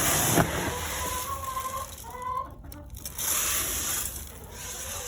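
Chickens clucking, with a couple of drawn-out calls in the first half.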